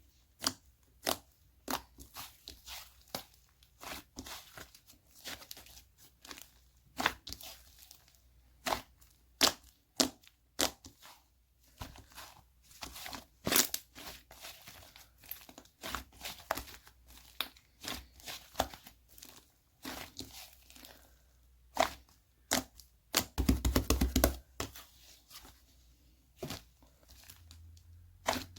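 Slime being squeezed and stretched by hand, giving irregular sharp pops and clicks, with a dense run of crackling about 23 seconds in.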